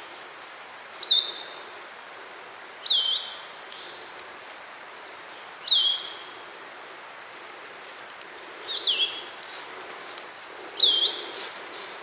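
A bird calling five times, about two to three seconds apart: each call a quick, high note sliding down in pitch and ending in a short level tail. A steady outdoor hiss runs underneath.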